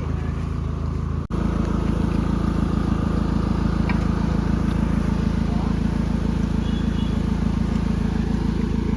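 Off-road 4x4 vehicle engine running steadily. The sound drops out for an instant about a second in, then the engine is louder.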